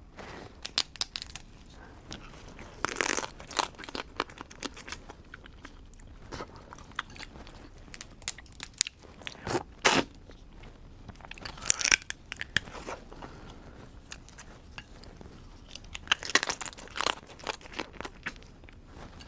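Crab shells being cracked and bitten, and the meat chewed close to the microphone: sharp crunches and cracks in clusters, several much louder, among quieter chewing.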